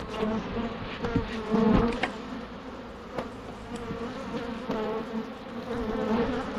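A swarm of honeybees buzzing around an opened hive, a dense wavering hum from many wings. The colony is disturbed and getting frisky as the hive is worked without smoke. A few short knocks sound over the buzzing.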